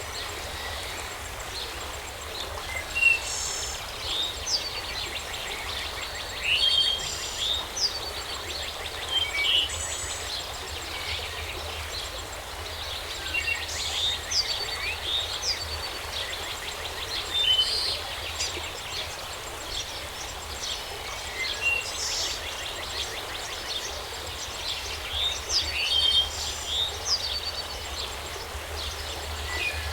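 Several songbirds chirping and calling in short repeated phrases all through, over a steady background hiss of outdoor ambience.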